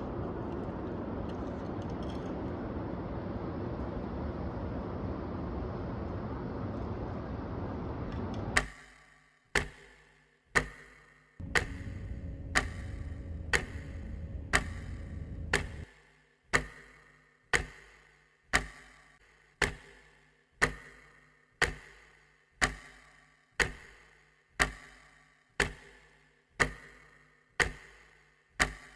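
A steady low rushing noise that cuts off abruptly about eight and a half seconds in, followed by sharp regular ticks at about one a second. The rushing noise comes back for about four seconds in the middle of the ticking.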